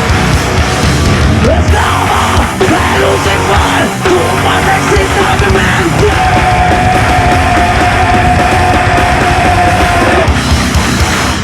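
Live nu-metal band playing loudly: distorted guitars, bass and pounding drums, with a long held note through the second half. The music cuts off abruptly at the end.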